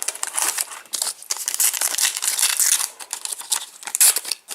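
Crinkling and tearing of a Match Attax trading-card packet wrapper being opened by hand: a dense run of crackles, loudest about four seconds in.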